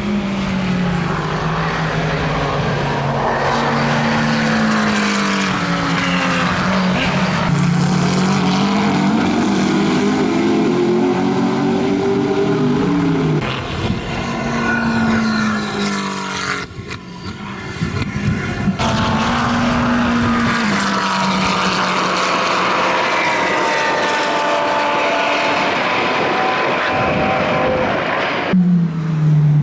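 McLaren 720S GT3 racing car's twin-turbo V8 running hard on track, its note climbing and then dropping repeatedly as it shifts up through the gears. The sound changes abruptly a few times between passes.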